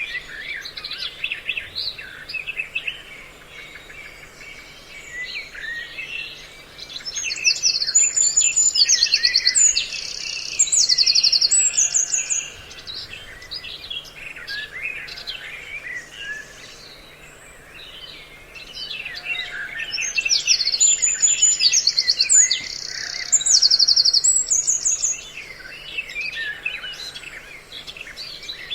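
A mixed recording of several songbirds chirping and calling together, a lure mix meant to draw wild birds in. Loud stretches of rapid high trills come twice, about 13 seconds apart, with softer chirping between.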